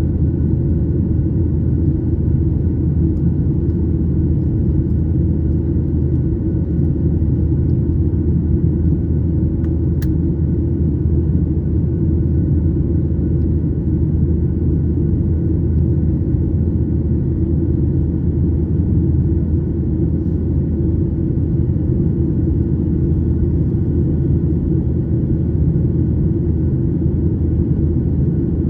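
Airliner cabin noise: a steady low rumble of engines and airflow heard from inside the passenger cabin, with faint steady tones above it and a single small click about ten seconds in.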